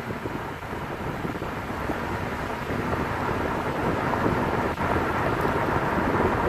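Thunderstorm: thunder rumbling over heavy rain, growing steadily louder.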